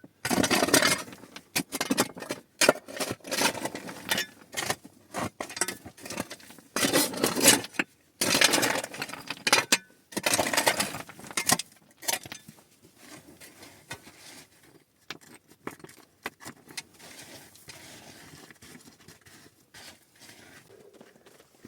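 Hard objects clinking, knocking and scraping against each other in dense irregular bursts for about twelve seconds, then fainter scattered scraping and rustling.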